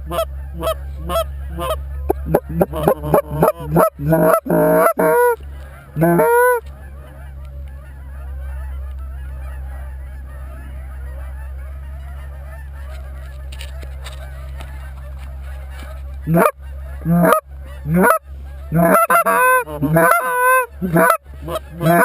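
Geese honking and clucking: bursts of loud, rapid close calls in the first seconds and again near the end, with a flock's faint overlapping calling in between.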